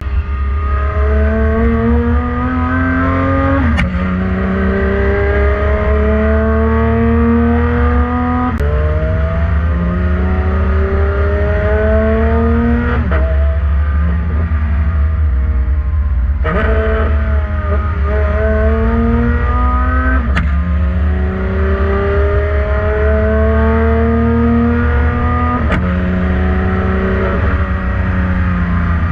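Porsche 991.2 GT3 RS's naturally aspirated flat-six with headers and a Valvetronic Designs exhaust, accelerating hard through the gears. The pitch climbs for several seconds, then drops at each gear change with a sharp crack, about six times.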